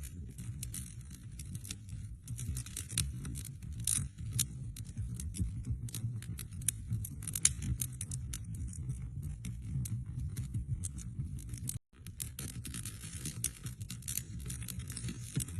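Wood fire crackling in a fireplace: irregular sharp pops and snaps over a steady low rumble of burning. The sound cuts out for a split second about twelve seconds in.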